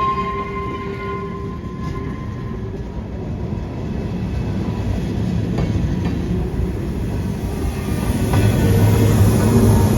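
A train rolling past on the rails, a steady rumble with clacking of wheels. The sound grows louder toward the end, where a strong low tone comes in.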